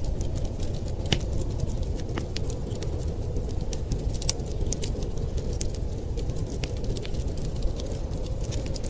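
Fire crackling, with frequent irregular sharp pops and snaps, over a steady low rumble.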